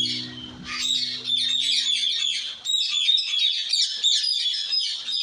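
Small bird singing a fast, continuous run of high chirps and trills. The last notes of a strummed acoustic guitar chord ring out and fade over the first two seconds or so.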